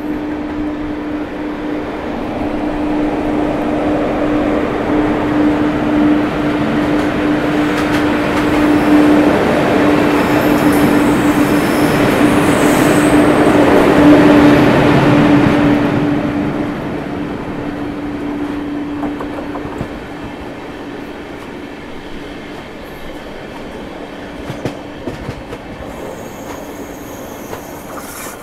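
Electric passenger trains running at speed on parallel tracks: wheels rumbling and clattering on the rails under a steady hum. It grows louder to a peak about halfway through as the other locomotive runs close alongside, then eases off.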